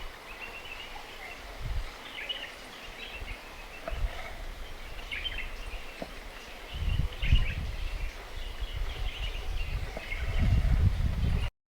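Outdoor ambience with small birds chirping on and off, over irregular low rumbles. The sound cuts off suddenly near the end.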